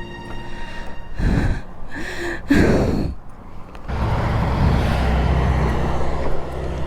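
A few heavy, breathy sighs and gasps, then from about four seconds in a steady engine hum.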